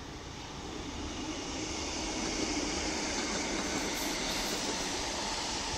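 A multiple-unit passenger train running along the tracks. Its rumble and hiss grow louder over the first couple of seconds, then hold steady.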